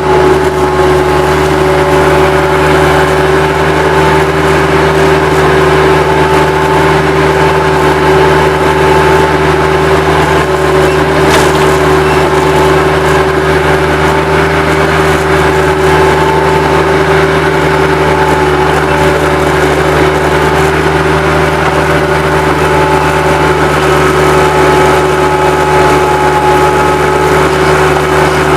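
Bobcat 763 skid steer's diesel engine running steadily at working speed, loud and close, with a constant whine held at one pitch.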